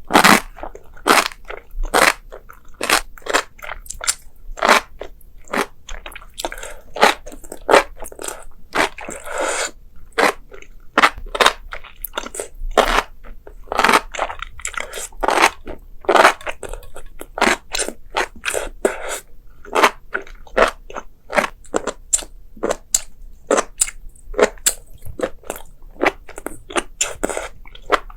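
Close-miked eating: a person biting and chewing crunchy food, a dense run of sharp crunches about one or two a second.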